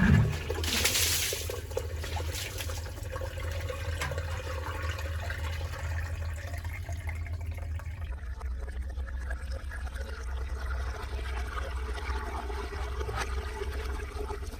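Floodwater rushing steadily, with a constant low rumble underneath; a brief louder burst right at the start.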